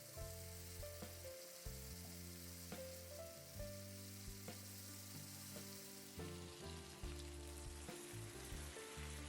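Soft background music of held notes over a faint, steady sizzling of okra and tomato gravy cooking in a pan.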